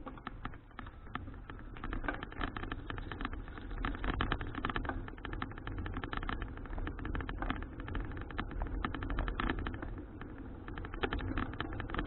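Citi Cruiser CFH700 folding bicycle being ridden, with dense irregular clicking and rattling over a steady low rumble of tyres and wind.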